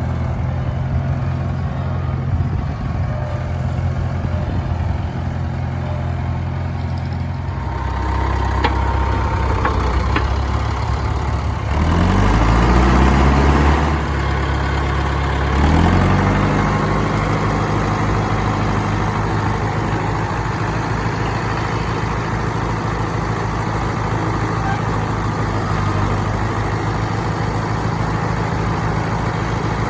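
International Harvester 574 tractor engine idling steadily. About twelve seconds in it is revved up and held for a couple of seconds, drops back, and is revved briefly once more before settling into a steady run.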